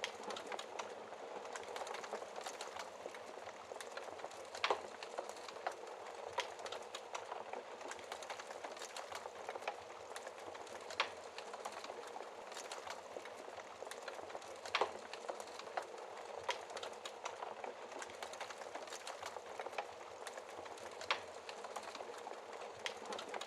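Wood fire burning in a fireplace: a steady hiss and dense crackle of burning logs, with a handful of louder sharp pops scattered irregularly through it.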